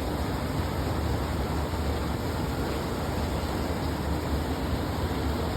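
A steady, even rushing noise with a low rumble underneath.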